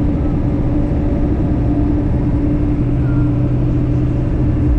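Steady drone of a pickup truck cruising at highway speed: engine hum and tyre and road noise, even and unbroken.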